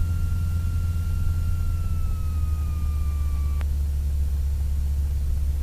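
North American T-6's nine-cylinder Pratt & Whitney R-1340 radial engine idling steadily, heard as a low drone while the aircraft waits on the runway. Over it runs a thin steady whine that sags a little in pitch and cuts off with a click a little past halfway.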